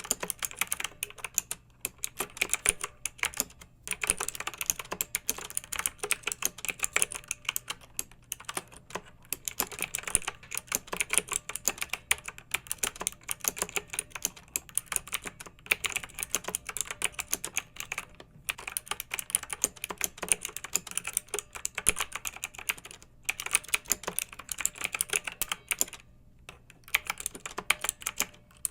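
Clicky mechanical keyboard being typed on in quick, continuous runs of keystrokes, with a few brief pauses.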